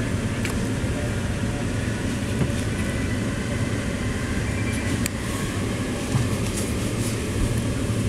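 Commuter train running at speed, heard from inside the carriage: a steady low rumble, with a couple of sharp clicks about half a second and five seconds in.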